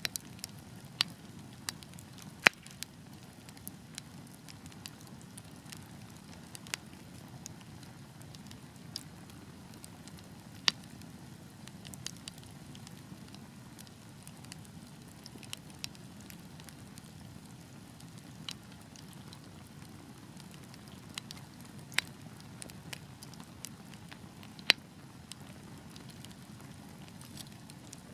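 Wood fire burning with a steady low rumble and irregular crackles, with a few sharp louder pops now and then.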